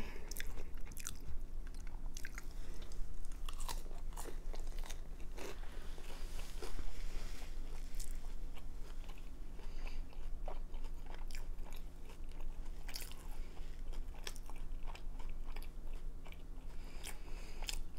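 A person chewing a mouthful of fried veggie roll, with irregular crunches from the crisp wrapper as it is bitten down and eaten.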